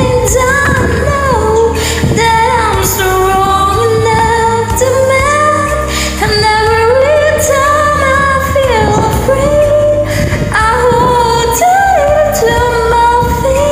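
A woman singing long, sliding notes over a pop backing track with a steady beat.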